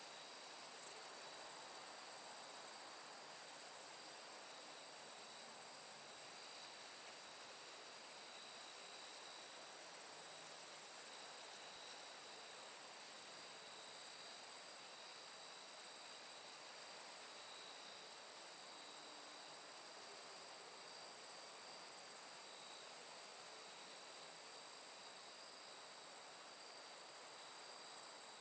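Steady insect chorus: several high-pitched trills holding unbroken over a faint, even hiss.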